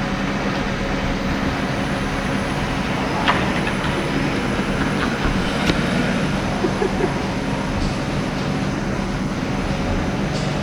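Steady rumbling background noise with a low hum and a few faint clicks.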